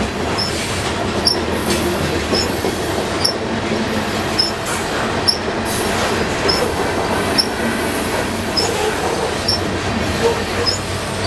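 Covered hopper cars of a freight train rolling past close by: a steady rumble of steel wheels on rail, with wheels clicking over the rail joints. Short high chirps repeat about once a second over the rumble.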